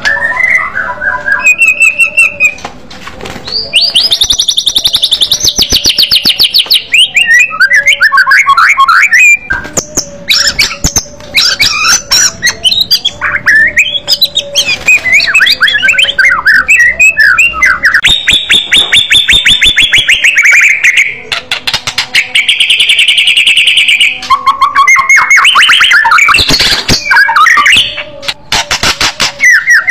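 White-rumped shama singing loudly and without pause: varied whistled phrases alternate with long, fast trills of rapidly repeated notes and quick chattering runs.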